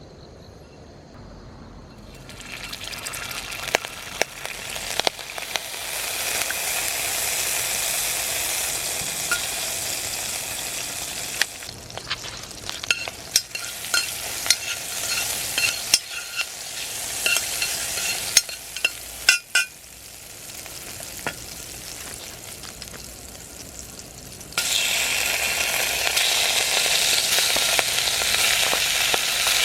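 Food sizzling and frying in a hot cast-iron pan, stirred with a utensil that clicks and scrapes against it now and then. The sizzling starts about two seconds in, drops back twice and comes in louder near the end.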